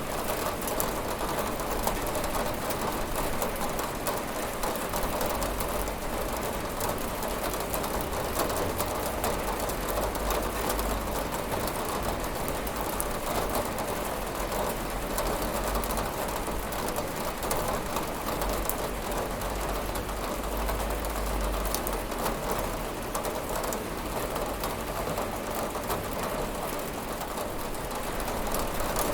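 Steady rain falling on a window, with fine ticks of drops and a low rumble underneath.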